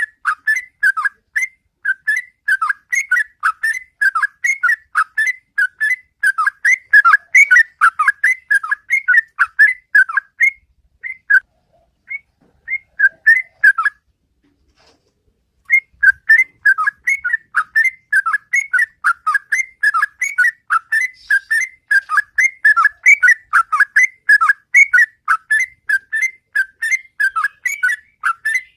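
Sooty-headed bulbul (trucukan) singing its loud, rapid 'ropel' song: a fast run of whistled notes, about three a second. The run thins out and breaks off for about two seconds near the middle, then starts again.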